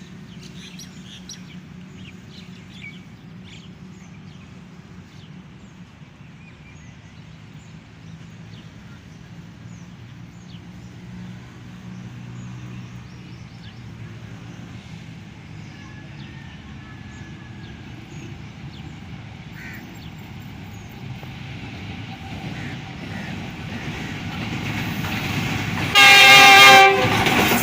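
Diesel locomotive of the Pakistan Express approaching, its engine rumble slowly growing louder, with birds chirping early on. Near the end the locomotive sounds one loud horn blast of about a second as the train comes through the station.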